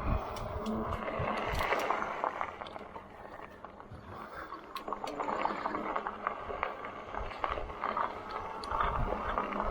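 Riding noise from an e-bike on a trail: the tyres rolling, with many small crackles and rattles and a rushing wind noise on the microphone.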